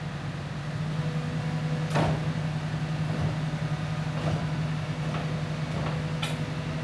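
Engine of a Sany SY215C excavator running steadily, with a few sharp knocks or clanks: one about two seconds in, another past the middle and one near the end.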